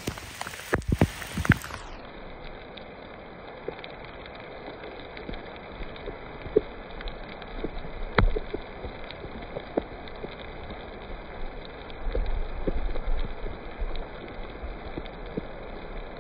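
A hailstorm pelting down: a steady hiss with many scattered sharp ticks of individual hailstones striking, and a few louder knocks in the first two seconds.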